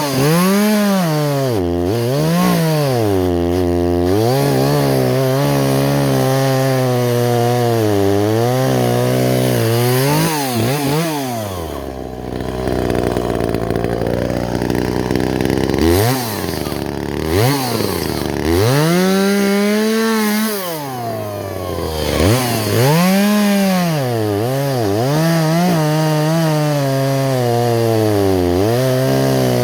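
Two-stroke chainsaw cutting wood, its engine revving up and falling back again and again, with level stretches under load. About twelve seconds in it drops to a low idle for a few seconds before revving up again.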